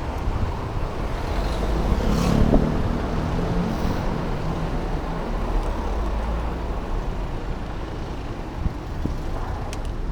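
Wind rushing over a helmet or body-mounted action camera's microphone, with steady road rumble from a moving e-bike and traffic noise. About two seconds in it swells louder with a low hum.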